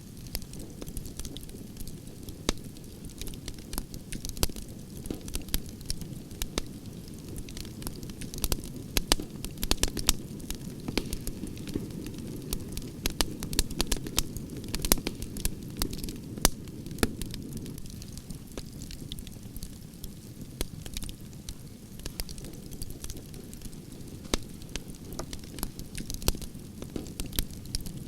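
Log campfire burning: a steady low rush of flame with frequent irregular sharp crackles and pops from the burning wood, busiest around the middle.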